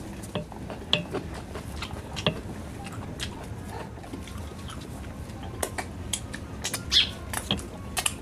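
Close-miked chewing and lip smacking while eating rice with pork curry by hand: irregular wet mouth clicks, a few sharper ones near the end.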